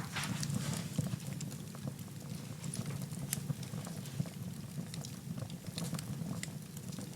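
Wood fire burning in a fireplace: irregular sharp crackles and pops over a steady low rumble of the flames, with a brief hiss at the start.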